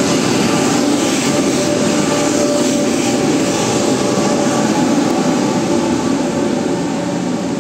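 Taiwan Railways electric train running through the station close by: a loud, steady rush of wheel and rail noise with a few faint steady tones over it, easing slightly near the end.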